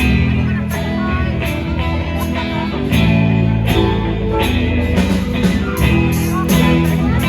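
Live rock band playing guitar-led music with a steady beat, without vocals, getting louder about three seconds in.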